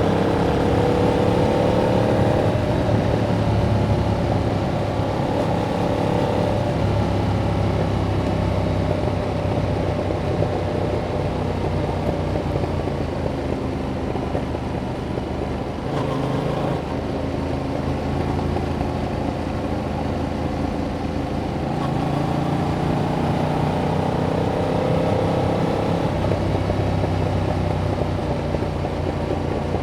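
A 2021 Yamaha MT-07's parallel-twin engine running through its stock exhaust under riding load. The engine pitch climbs over the first couple of seconds, settles into a steadier run, then climbs again and drops back a few seconds before the end.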